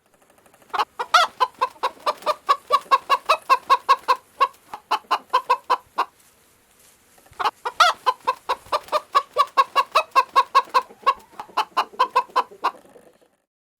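A chicken clucking rapidly, about four or five clucks a second, in two long runs with a short pause between them.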